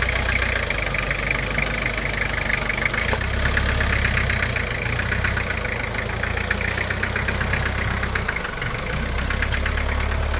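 1981 Peugeot 604's four-cylinder turbodiesel engine idling with a steady, rapid diesel clatter, a couple of minutes after a cold start.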